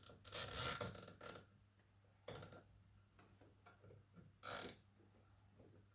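Nylon cable ties being pulled tight to fasten a boost controller in place: a rasping ratchet sound, one longer pull in the first second, then two short pulls about two seconds apart.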